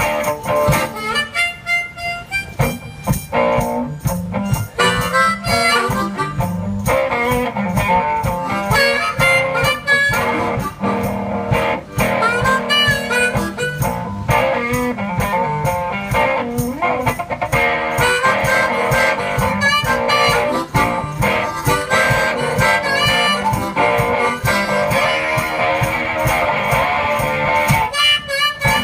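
One-man band playing a blues instrumental: harmonica with bending notes over strummed guitar, with a steady beat.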